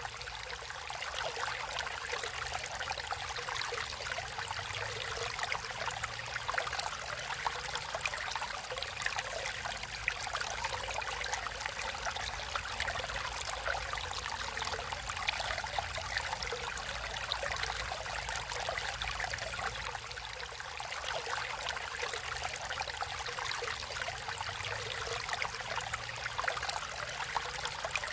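Natural stream water flowing and trickling over rocks: a steady, even rush with fine splashing detail.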